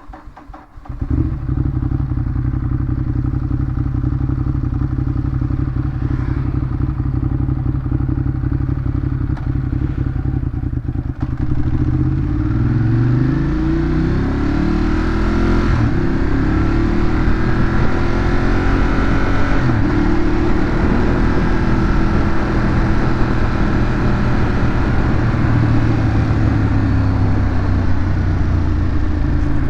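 Ducati Monster 821's 821 cc L-twin engine through its stock exhaust: it catches about a second in and idles steadily. From about twelve seconds the revs climb and drop a few times as the bike pulls away, then it runs on at a steady cruise.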